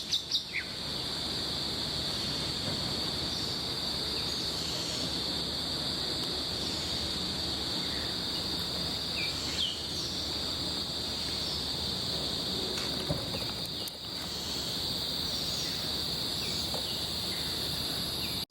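A steady, high-pitched drone of insects, unbroken throughout, with a few short, sharp down-sweeping bird chirps scattered over it.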